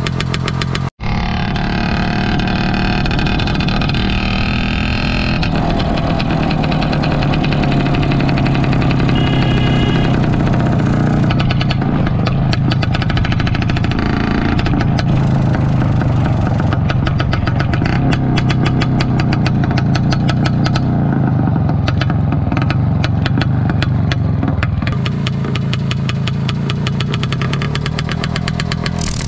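Exhaust of a 1974 IZH Planet 3 motorcycle's single-cylinder two-stroke engine running steadily, with an even train of firing pulses. There is a momentary break about a second in.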